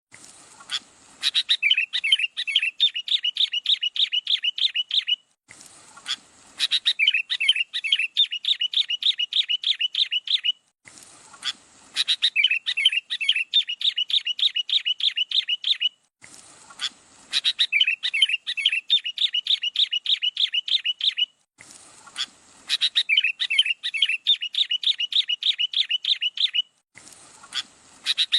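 A songbird's rapid chirping run, many short notes a second, repeated in five near-identical bouts with a brief silence between each, like a recording played on a loop.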